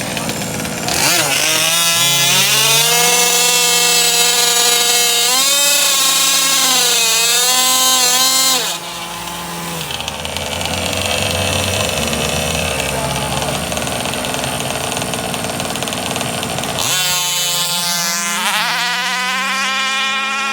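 Small two-stroke gas engines of large-scale RC drag cars revving high. One revs up about a second in, wavers up and down, and cuts off suddenly, leaving a lower running engine. A second engine revs up sharply near the end.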